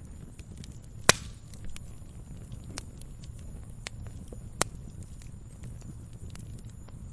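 Campfire burning with a steady low rumble and scattered crackles, with a loud pop about a second in and another a little past the middle.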